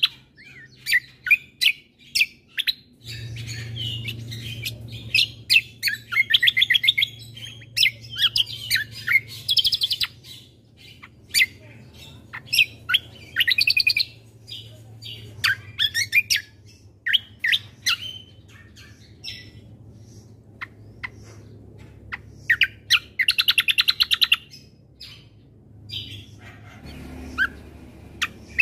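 Kecial kombo (cucak kombo) songbird singing: quick high chirps and fast rattling trills in short phrases broken by brief pauses. A steady low hum runs beneath most of it.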